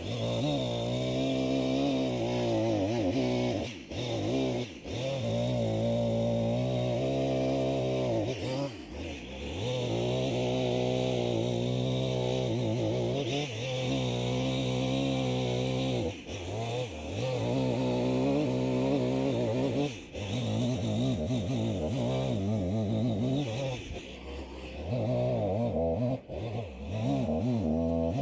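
Chainsaw cutting logs into lengths, its engine note wavering under load and dropping briefly every few seconds between cuts.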